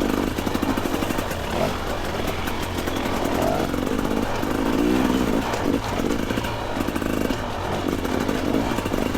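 Two-stroke dirt bike engine running on a rough trail, its revs rising and falling as the throttle is worked.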